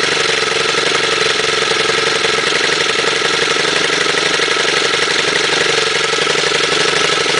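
Stihl FS90R trimmer's 28.4 cc 4-MIX engine running steadily just after a cold start, holding an even speed.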